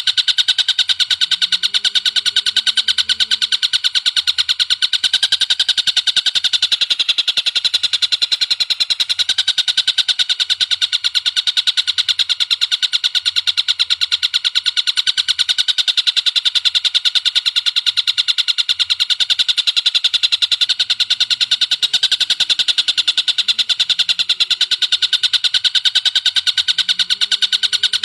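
Recorded bird call playing as a masteran track: a rapid, unbroken string of high, sharp notes, many per second, held at an even level throughout.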